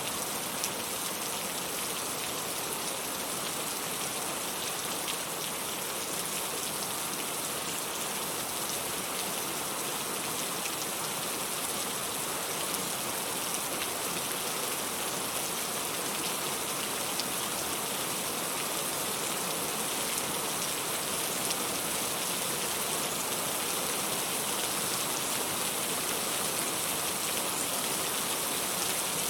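Steady rain falling, a constant hiss of rain with the fine patter of many individual drops hitting a surface.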